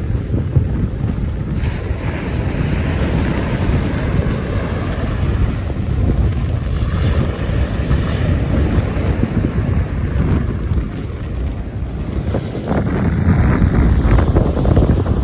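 Wind buffeting the microphone in a loud low rumble, with ocean surf washing behind it.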